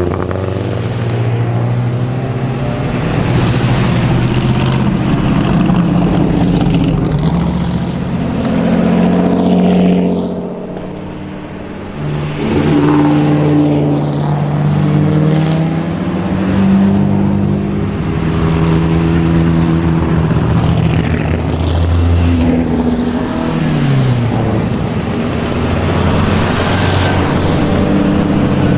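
Vintage race car engines running and revving as several cars pass one after another, their pitches rising and falling and overlapping. There is a brief lull about ten seconds in.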